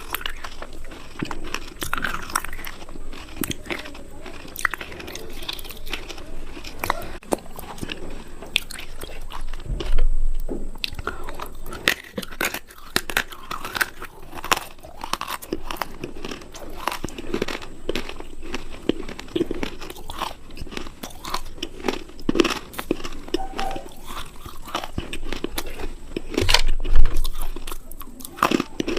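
Close-miked crunching: someone biting and chewing something hard and brittle, with crisp cracks coming in quick succession. A louder bite comes about ten seconds in, and another near the end.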